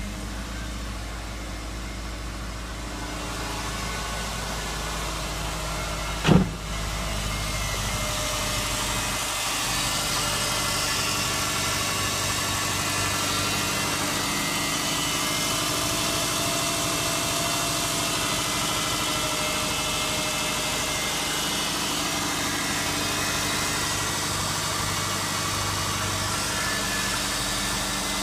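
Freshly rebuilt car engine idling steadily after startup. It is heard first from inside the car, then at the open engine bay, where it is louder and brighter. A single sharp knock about six seconds in.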